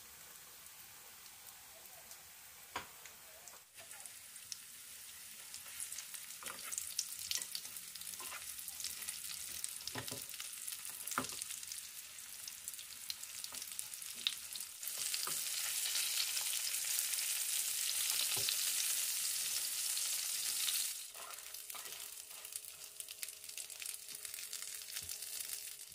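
Breaded pork cutlets shallow-frying in hot oil in a frying pan: a steady sizzle full of small popping crackles, with a few sharp clicks. The sizzle grows louder for several seconds past the middle, then drops back.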